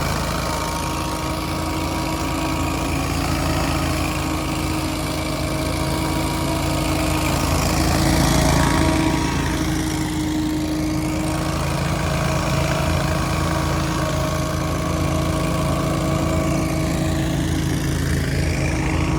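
Lawn-care machine engine running steadily at working speed, with its pitch sweeping up and down around the middle and again near the end as the machine moves past.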